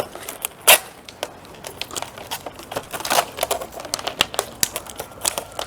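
Plastic and adhesive tape being handled: irregular crinkling and crackling with many sharp clicks and snaps.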